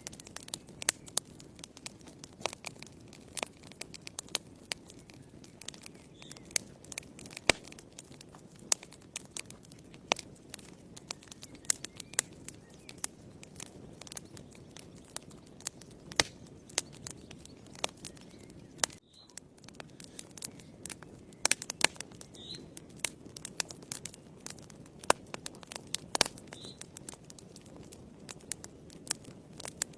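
Fire in a fireplace crackling: frequent sharp pops and snaps over a low, steady rush of flame. The sound dips briefly about two-thirds of the way through.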